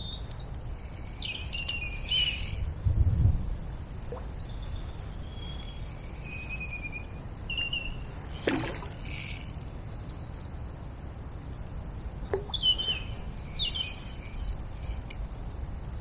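Small songbirds chirping and calling in short, repeated phrases, over a steady low background rush.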